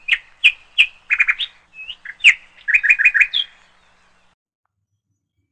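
Songbird chirping: quick phrases of short, sharp tweets in two bursts, ending about three and a half seconds in.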